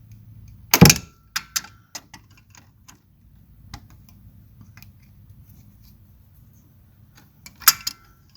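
Metal hand tools clicking and clanking against metal parts, with two sharp clanks, about a second in and near the end, each leaving a brief metallic ring, between lighter ticks and taps.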